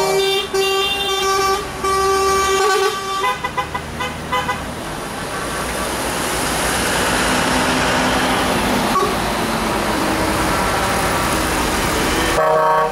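Truck horns sounding in long blasts, breaking into short toots. Then a steady rushing noise slowly swells, and the horns blast again near the end.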